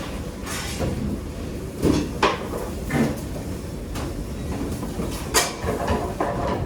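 Kitchen work clatter: several sharp knocks and clunks of utensils, containers or doors being handled, the loudest about two and five seconds in, over a steady low rumble.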